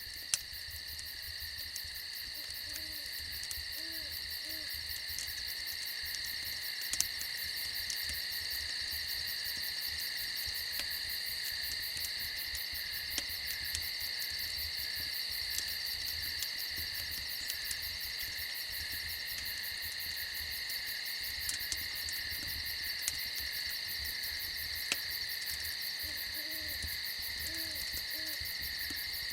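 A steady chorus of crickets chirping, with scattered sharp crackles from a campfire. An owl gives a short series of low hoots a few seconds in, and again near the end.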